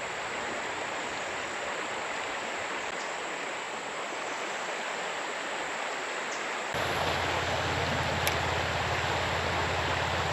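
Steady rush of creek current running through a riffle. About two-thirds of the way in, it suddenly gets louder and a low rumble joins it.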